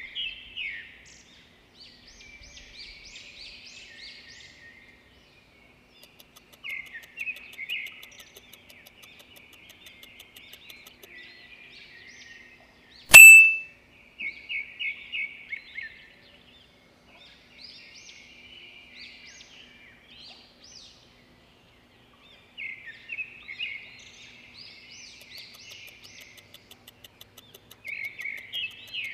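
A songbird singing short trilled phrases, repeated every few seconds. About 13 seconds in, a single sharp, loud ding cuts in, far louder than the birdsong.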